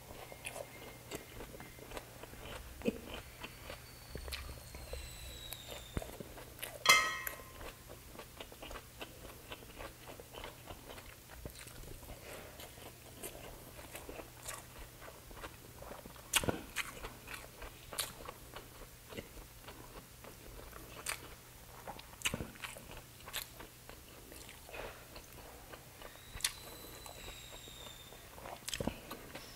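A man chewing and biting grilled isaw (skewered pork and chicken intestines) close to the microphone: many short, irregular mouth clicks and crunches, the loudest about seven seconds in.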